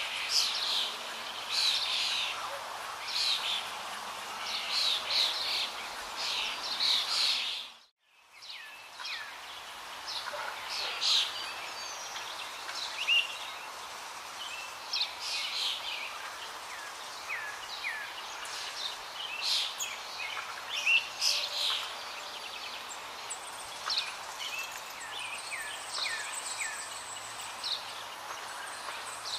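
Birds chirping, with many short high calls one after another. The sound drops out for a moment about eight seconds in, then the chirping resumes.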